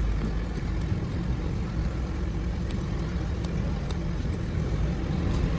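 Steady low vehicle rumble with a few faint ticks.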